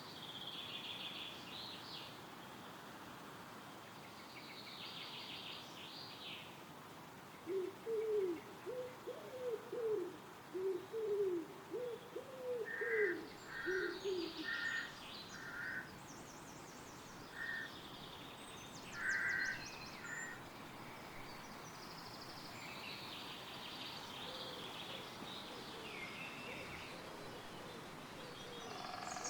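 Woodland birdsong over a steady hiss of wind in the trees. Small songbirds chirp and trill throughout, and a pigeon coos a low, repeated phrase from about a quarter of the way in until about halfway.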